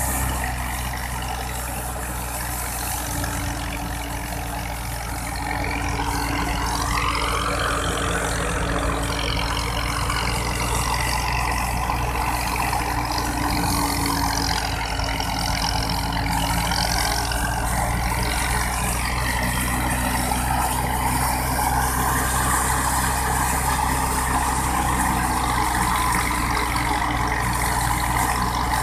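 Wheat thresher and its driving engine running steadily: a low engine drone under a loud whirring, rushing machine noise whose pitch wavers up and down. It grows louder about five seconds in.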